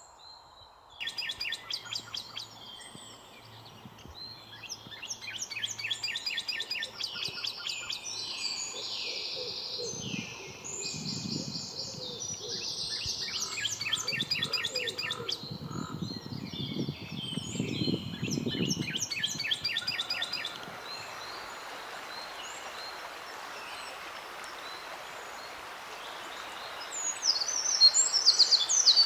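Several songbirds singing and chirping over one another with quick, rapid trills. About two-thirds of the way through the song stops, leaving a steady hiss, and then the chirping returns near the end.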